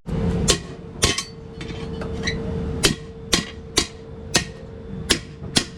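Hammer striking metal: eight sharp, ringing blows at an uneven pace, over a faint steady hum.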